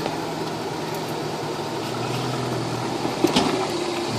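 Truck engine running at a low, steady speed, with a single sharp click a little past three seconds in.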